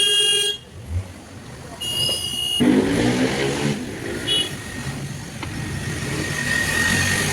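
Motor vehicle traffic: a brief horn-like tone at the start, then a vehicle passing close by, loud at first and then settling into steady road noise.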